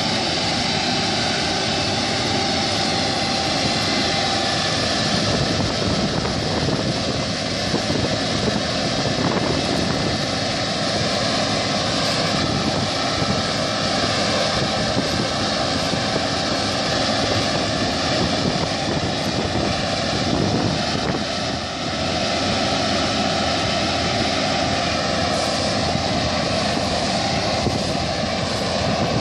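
New Holland CR8080 combine harvester running, a steady, unbroken engine and machinery drone.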